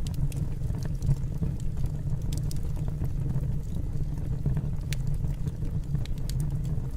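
Wood fire burning in a fireplace: a steady low rumble with scattered sharp crackles and pops from the burning wood.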